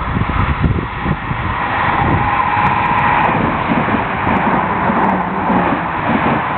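SNCB train passing close by: a loud, continuous rumble, with a steady whine rising out of it in the middle.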